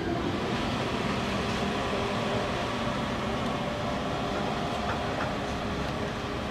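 Steady rumbling and rattling of a ride tram in motion, with no distinct knocks or changes.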